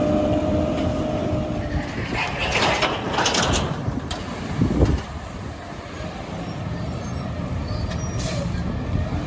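Diesel garbage truck engine running steadily, with a loud hiss between about two and four seconds in and a low thump near five seconds.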